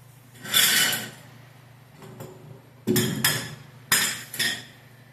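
Metal scraping and clanking in three short bursts, over a steady low hum.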